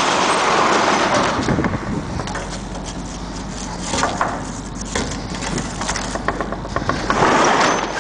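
Metal cargo door of a box truck being worked: a long rattling slide near the start and again near the end, with clanks and clicks in between.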